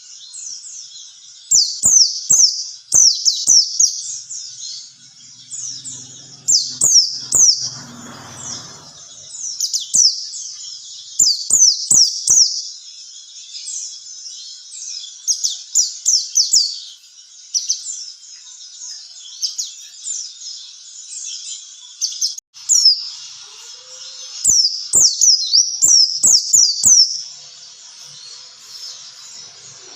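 White-eye (pleci) singing a fast, high twittering song in bursts of rapid down-slurred chirps with short pauses between. Scattered sharp clicks run under the song.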